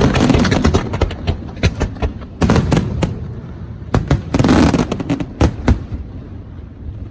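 Fireworks going off: dense volleys of sharp bangs and crackle in three clusters, then a few single loud bangs, dying away near the end.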